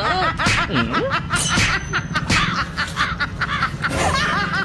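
A person snickering and chuckling in short bursts with voiced, sliding sounds, over a steady low hum.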